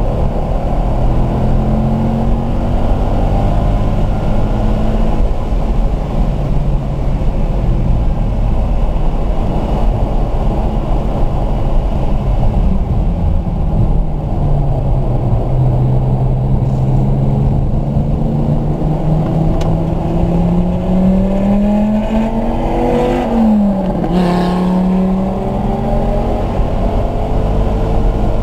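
Car engine heard from inside the cabin on a track lap, over steady road and wind noise: the note falls as the car slows for a corner, holds low through it, then climbs under hard acceleration. Near the end the pitch drops sharply at an upshift and climbs again.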